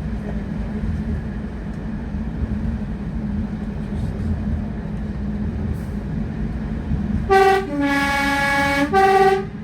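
Two-tone train horn sounding high, low, high for about two seconds, about seven seconds in, over a steady low rumble.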